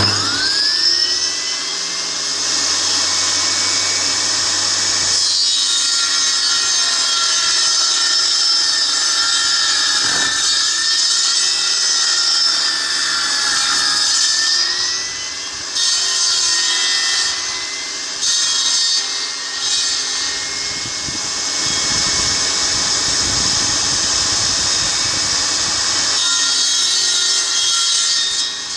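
Electric power saw starting suddenly and cutting wood. Its motor whine rises to a steady pitch, sags and recovers a little as the blade is loaded, with the hiss of the cut over it throughout.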